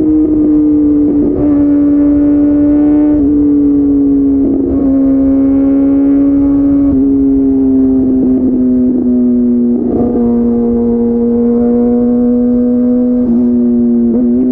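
Kawasaki ZX-6R 636's inline-four engine through an SC Project slip-on exhaust, running at a steady, high-pitched note that eases slowly downward, with brief breaks in the note several times.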